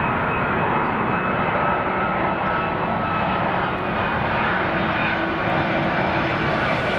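Airbus A330 airliner arriving: a steady jet engine noise with a faint high whine over it.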